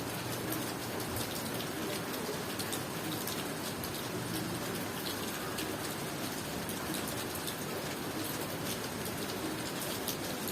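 Steady rain falling, with many separate drops ticking through the even hiss.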